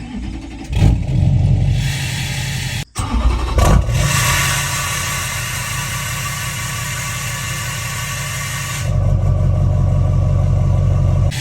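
Duramax 6.6-litre V8 turbo-diesel running through a new 4-inch straight-pipe exhaust with no muffler. It is revved briefly twice in the first four seconds, then runs steadily, with abrupt changes where the footage is cut.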